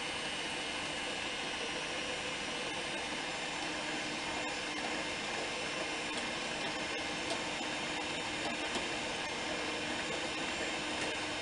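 A steady hiss, with a spoon stirring a thick remoulade mixture in a bowl: light clicks and scrapes from about seven seconds in.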